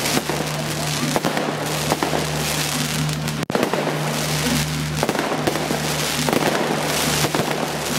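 Fireworks display: a dense, near-continuous run of crackling pops and bangs, with a steady low hum underneath. The sound cuts out for an instant about three and a half seconds in.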